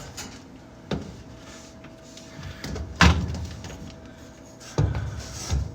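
Four knocks and clunks from parts being handled inside an opened clothes dryer, the loudest about three seconds in, over a faint steady tone.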